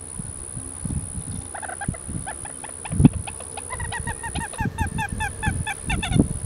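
A bird calling: a rapid run of short, pitched notes, about five a second, starting about one and a half seconds in and stopping near the end. Low thumps sound underneath, the loudest about three seconds in.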